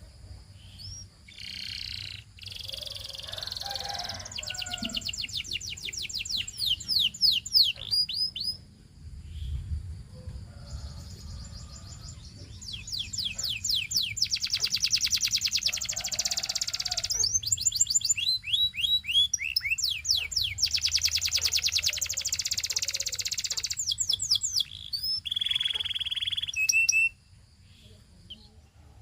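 Canary singing long, rapid trills and rolls in phrases with short pauses between them, ending on a held note before stopping. A faint low hum runs underneath.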